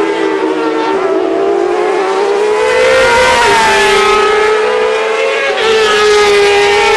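Racing sport bike engines at high revs on track. The pitch climbs to about three seconds in, then drops abruptly, as at an upshift, with another change in pitch near six seconds in.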